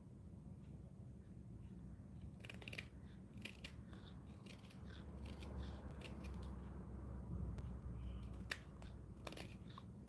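Faint strokes of a carving tool on wood, short scratchy cuts and clicks at irregular intervals.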